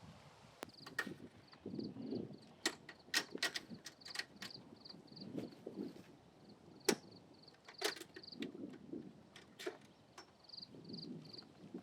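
A series of irregular sharp clicks and knocks with soft rustling handling noise between them, over short runs of high, quickly repeated chirping.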